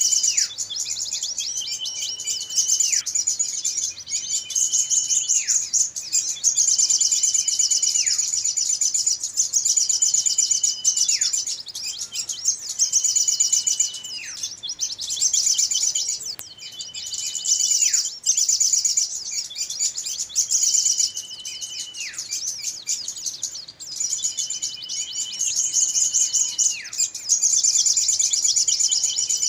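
Bird-lure recording of small birds calling noisily: a dense, rapid high-pitched twittering chorus. Through it, about every three seconds, a whistle holds one high note for about a second and then swoops sharply downward.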